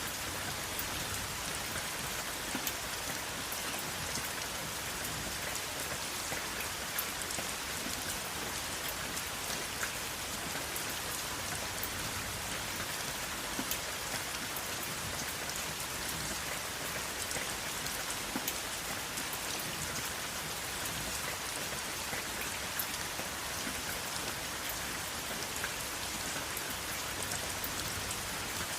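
Steady rain falling, an even hiss with many small scattered drop ticks and no thunder.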